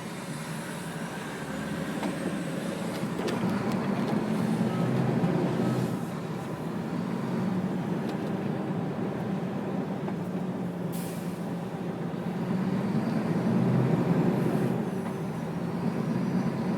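Diesel lorry engine pulling on the road, the engine note building and then dropping back twice, about six seconds in and again near the end, as with gear changes. A short hiss of air comes about eleven seconds in.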